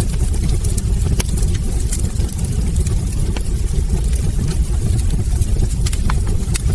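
Wood fire in a hearth crackling: frequent sharp pops and snaps over a steady low rumble of the burning flames.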